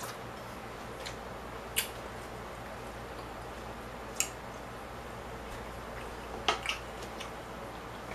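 Close-up eating noises: chewing a mouthful of noodles, with a few sharp wet mouth clicks and smacks (one about two seconds in, one about four seconds in, and a quick pair near the end) over a steady low background hum.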